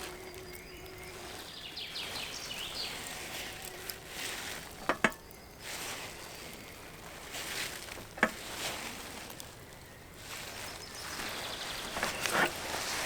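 Quiet outdoor ambience with two short sharp clicks, about five and eight seconds in.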